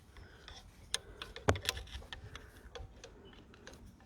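Small plastic clicks and taps of a diesel leak-off pipe connector being pressed onto a fuel injector and its retaining clip pushed home from the back, with one sharper click about one and a half seconds in.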